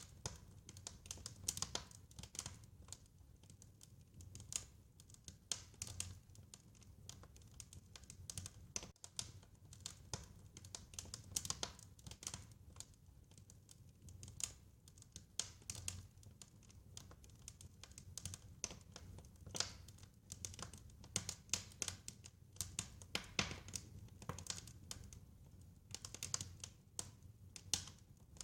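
Wood fire crackling, with irregular sharp pops and snaps, some in quick clusters, over a faint low rumble.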